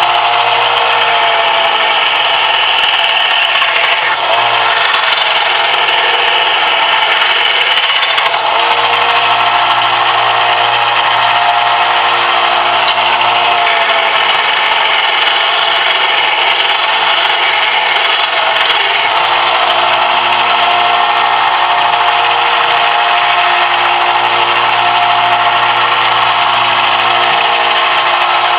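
Electric power sander running steadily against a brass fitting, a continuous high whine with grinding hiss. The pitch and load shift slightly a few times as the piece is pressed and moved.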